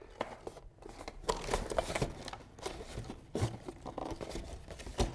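Packaging rustling and crinkling, with scattered small clicks and handling knocks, as a hydrofoil wing is unwrapped.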